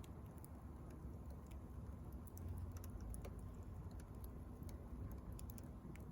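Wood fire crackling, with faint sharp pops at irregular intervals over a steady low rumble.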